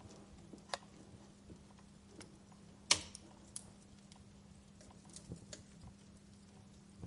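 Wood fire crackling: scattered small clicks and snaps, with a sharp pop about three seconds in and a smaller one just before the first second, over a faint steady low hum.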